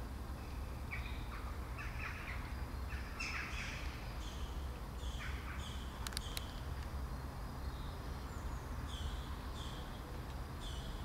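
Birds calling: a run of short harsh calls in the first few seconds, then repeated shorter, higher chirps, over a steady low rumble. Two sharp clicks about six seconds in.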